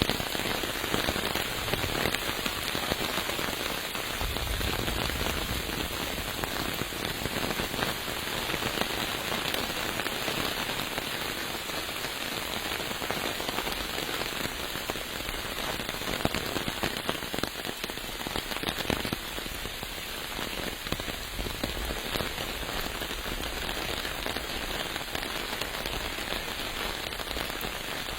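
Steady rain falling, with a dense scatter of individual drop hits close by.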